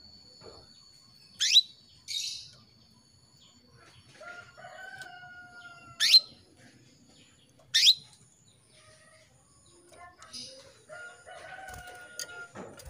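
Female canary calling: sharp, loud chirps that sweep steeply upward, three spaced a few seconds apart, a call meant to draw a male canary into song. Fainter, longer, lower drawn-out calls come between them.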